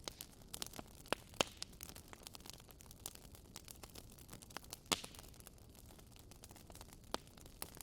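Wood fire in a fireplace crackling: irregular sharp pops and snaps over a faint steady hiss, with the loudest pops about a second and a half in and again about five seconds in.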